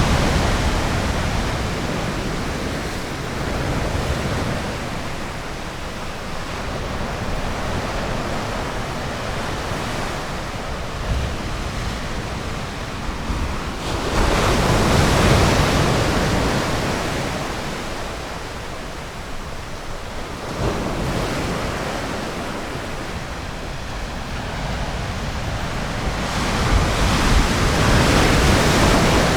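Ocean surf washing onto a beach: a steady hiss of water, with waves surging louder about halfway through and again near the end.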